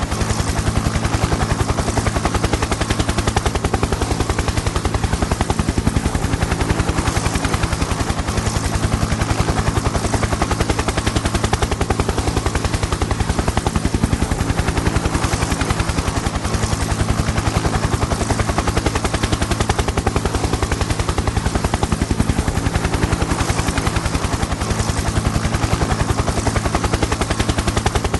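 Helicopter in flight: the rotor beats in a rapid, even rhythm over a steady engine hum, holding the same pace and loudness throughout.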